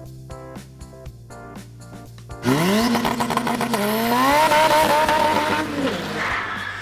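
Background music, then about two and a half seconds in a Honda Civic hatchback's four-cylinder engine revs hard for a drag-race launch. Its pitch climbs and holds, dips briefly, climbs again, and falls away near six seconds in.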